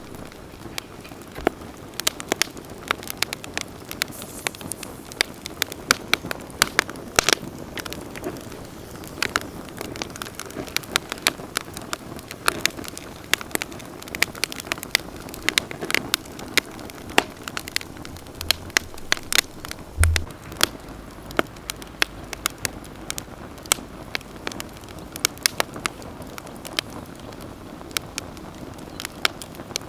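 Wood campfire burning with a steady soft rush of flames and frequent sharp, irregular crackles and pops. A brief low thump comes about two-thirds of the way in.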